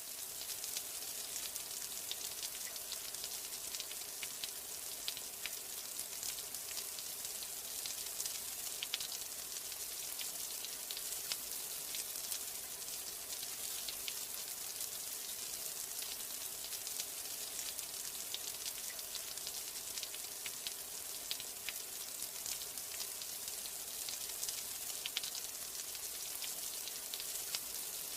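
Steady rain with a dense patter of individual drops ticking against a surface, an even hiss with no change in strength.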